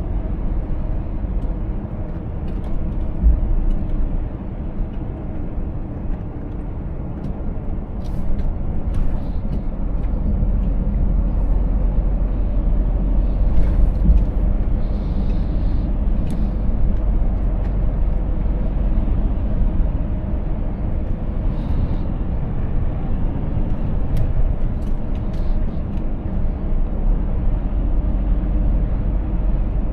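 Scania S 500 truck driving along, its diesel engine running at a steady pace with road rumble, broken by a few brief clicks.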